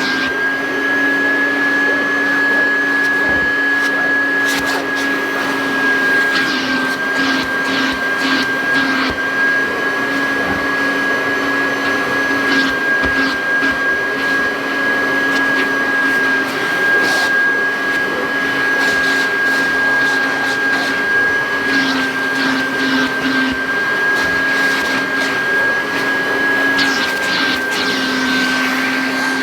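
1984 Kirby Heritage vacuum cleaner running steadily with its hose and upholstery attachment: a constant high whine over a lower hum, with a few brief scuffs.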